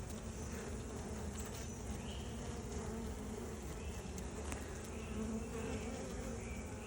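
Honey bees of an opened Russian colony buzzing steadily, the hum of many bees flying around the hive.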